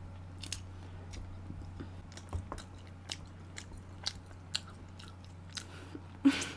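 Close-miked eating of spicy braised pork ribs: scattered soft chewing and lip-smacking clicks over a steady low hum, with a louder short smack near the end.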